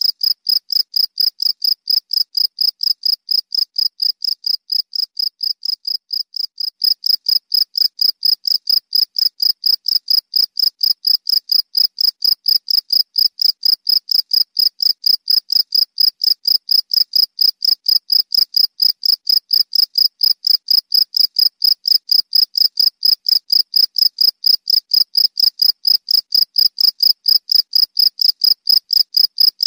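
Cricket chirping in a steady, high-pitched, evenly pulsed song of about four to five chirps a second, a little louder from about seven seconds in.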